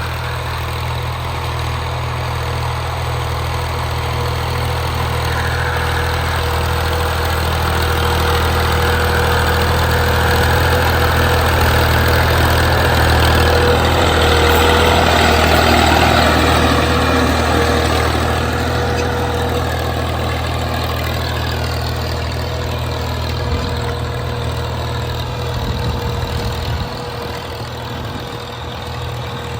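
Tractor engine running steadily with a low, even hum, growing somewhat louder toward the middle and easing off again later.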